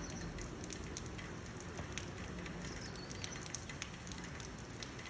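Steady rain falling: a soft, even hiss with scattered small drop ticks.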